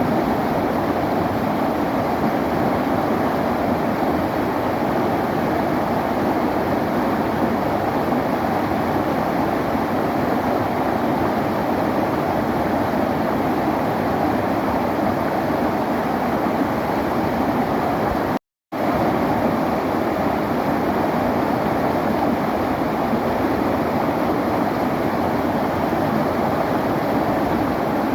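River water flowing, a steady rushing noise. It cuts out completely for a split second about two-thirds of the way through, then resumes at once.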